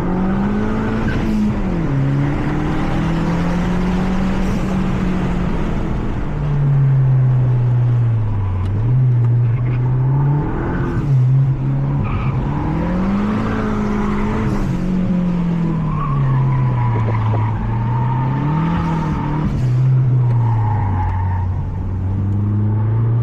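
Mazda 3 MPS's 2.3-litre turbocharged four-cylinder engine, heard from inside the cabin, revving up and dropping back several times as the car is driven hard on track. Tyres squeal briefly in a corner near the end.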